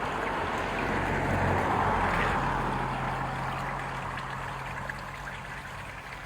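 Small year-round brook of fresh running water, a steady rushing babble that swells about two seconds in and then slowly fades, with a low steady hum underneath.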